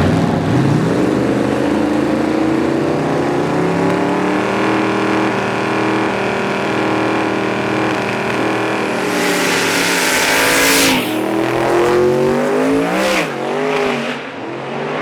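Drag racing car engine revving up and held at a steady high pitch. About nine seconds in there is a loud rushing burst of noise, after which the engine pitch falls, dips and rises again, with a second brief rush near the end.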